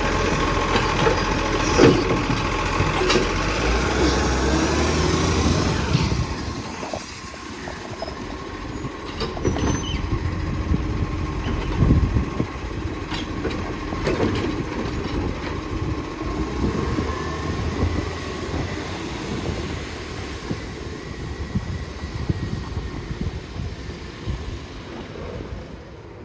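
Garbage truck engine running loudly with a steady tone over it, then dropping off sharply about six seconds in as the truck moves away. After that comes a quieter vehicle background with scattered knocks and clatter.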